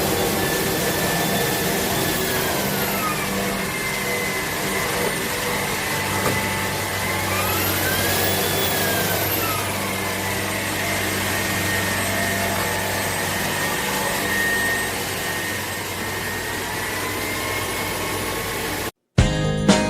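Shark PowerDetect cordless vacuum cleaner running steadily, its motor whine rising and falling twice before settling. It cuts off abruptly near the end.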